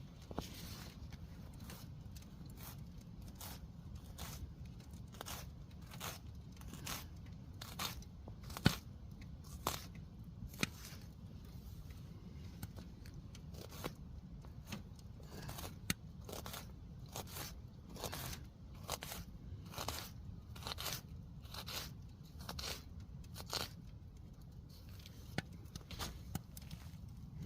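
Wood fire crackling inside a small tent stove: irregular sharp pops and snaps, one to two a second with one louder snap about nine seconds in, over a steady low rumble.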